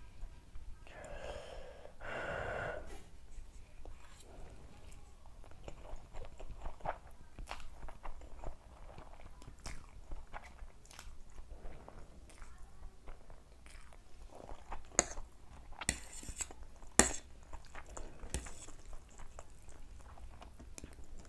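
Close-miked chewing of Maggi instant noodles: soft, wet mouth clicks throughout. In the second half come a few louder, sharp clicks and a brief noisy burst.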